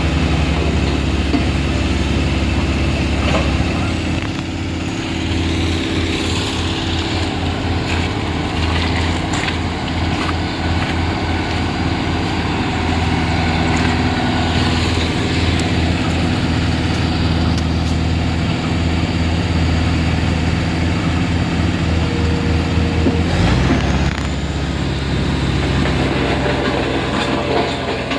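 Heavy diesel engine running steadily, its low note shifting about 23 seconds in, with a few brief knocks.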